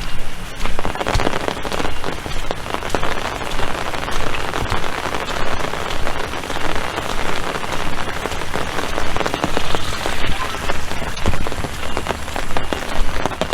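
Steady heavy rain, with many sharp individual drop hits close to the microphone.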